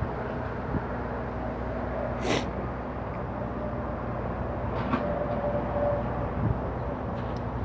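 Steady low rumbling background noise with a faint hum, broken by a short sharp sound about two seconds in and a few light ticks about five seconds in.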